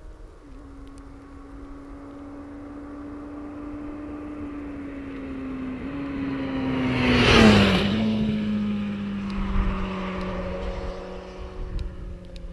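Honda CB1000R with its stock exhaust riding past at a steady engine note. It grows louder as it approaches and is loudest about seven seconds in, then its pitch drops as it passes and fades away.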